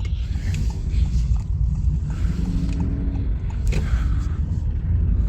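Honda Fit car driving, heard from inside the cabin: a steady low rumble of road and engine noise, with a faint engine hum coming and going.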